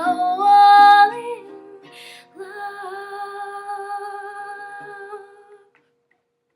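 Female voice singing the closing held notes of an acoustic pop song over ringing acoustic guitar: a note that climbs and swells in the first second and a half, then one long, slightly wavering note from about two and a half seconds in that fades out by about five and a half seconds.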